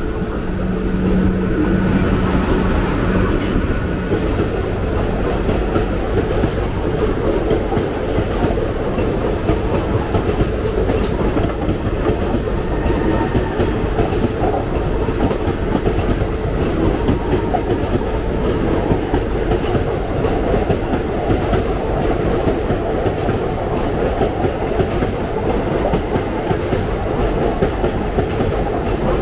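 Indian Railways express train passing close by, its passenger coaches rolling past with a steady rumble and clickety-clack of wheels over the rail joints. A low steady tone sounds over the first few seconds.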